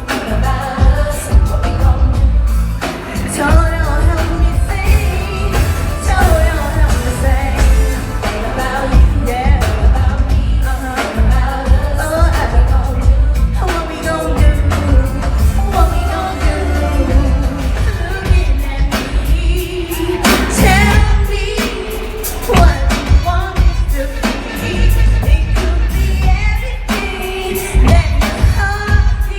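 Live R&B concert music: singing over a loud band or backing track with a heavy bass beat.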